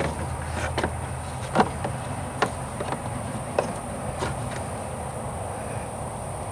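Irregular sharp clicks and light knocks from hands and tools working hose clamps onto a rubber transmission cooler hose, over a steady low hum and a faint steady high whine.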